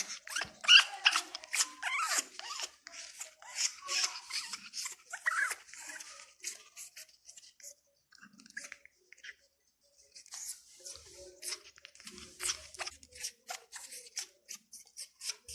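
A parrot crunching food with its beak: quick runs of sharp clicks and crunches, broken by a pause of a couple of seconds in the middle, with some short squeaky sounds in the first half.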